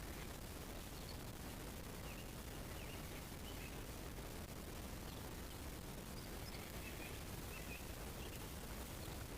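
Faint, scattered high chirps of small birds over a steady background hiss.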